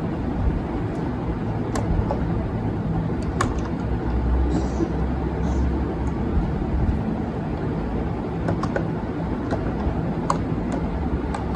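Scattered light clicks and taps, as of makeup items and plastic organizer parts being handled and set down, over a steady low rumble.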